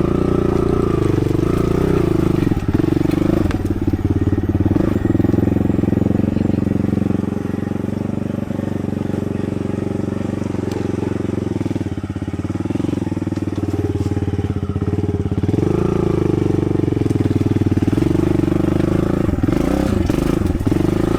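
Kawasaki KLX110 dirt bike's small single-cylinder four-stroke engine, revving up and down as it is ridden; it eases off for several seconds midway, then opens up again.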